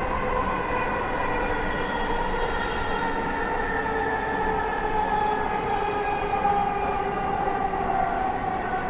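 Electric metro train running, heard from inside the carriage: the whine of the traction motors, several tones together, sinks slowly in pitch over a steady rumble as the train slows for the next station.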